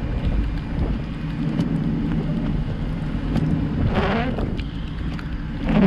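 Steady road and engine rumble heard from inside a car driving through snow. A short pitched squeal, bending in pitch, comes twice: about four seconds in and again near the end.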